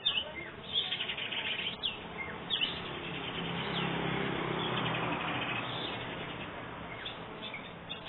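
Long-tailed shrike singing: a run of sharp, falling whistled notes mixed with fast, harsh rasping chatter.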